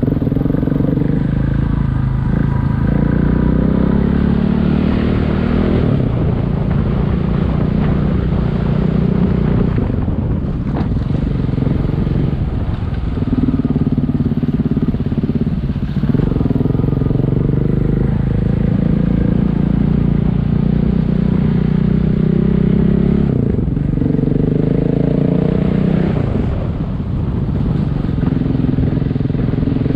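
Single-cylinder adventure motorcycle engine running under way, its pitch rising and falling with the throttle, with brief drops in between such as at gear changes.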